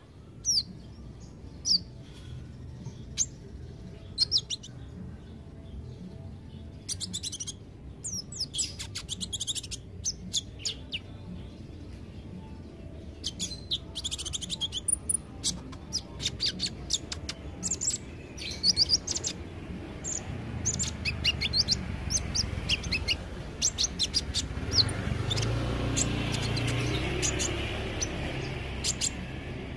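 Olive-backed sunbird (kolibri ninja) singing: quick, very high-pitched chirps and short trills. A low steady hum underneath grows louder in the second half.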